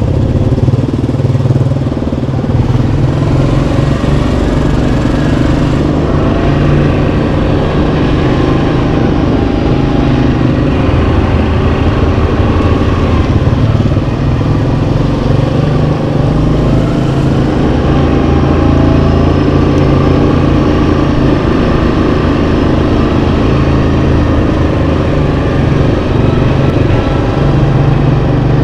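Yamaha Kodiak 700 ATV's single-cylinder engine running steadily under way on a dirt trail, its pitch rising and falling as the throttle changes.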